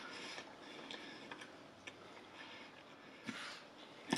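A person chewing food with the mouth closed, heard close up: faint soft chewing with scattered small wet mouth clicks, and a slightly louder rustle just past three seconds in.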